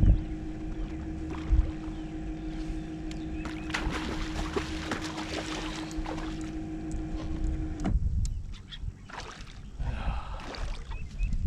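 Steady motor hum from the kayak that cuts off abruptly about eight seconds in, with a couple of knocks and a stretch of water noise along the way.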